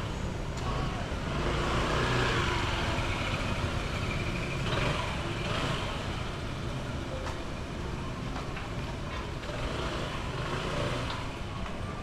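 City street traffic: motor vehicles passing over wet road, with the loudest pass swelling up about two seconds in.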